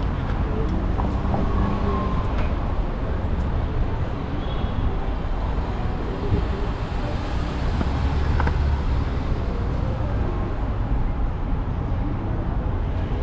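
Steady city street and traffic noise under a constant low wind rumble on the microphone of a camera riding along on a moving e-bike.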